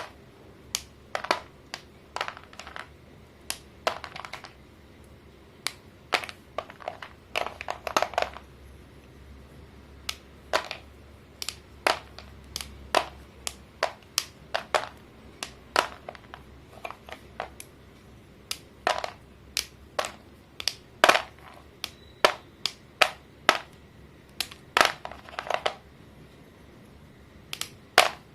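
Sticks of school chalk snapping and crumbling: a long run of sharp, crunchy cracks at uneven intervals, sometimes several in quick succession.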